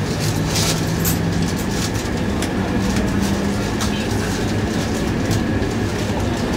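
E2 series Shinkansen train running, a steady rumble with a low motor hum that steps up in pitch about two seconds in, and scattered light clicks.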